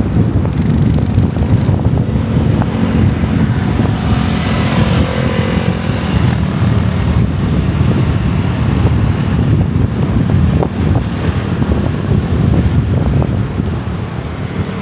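Wind buffeting the microphone of a moving motorbike, over a steady low rumble of the bike's engine and road traffic.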